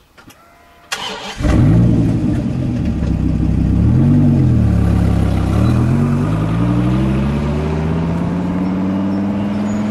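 Dodge Viper's V10 engine starting up after a sharp click about a second in, revving up and back down, then pitch rising steadily as the car pulls away.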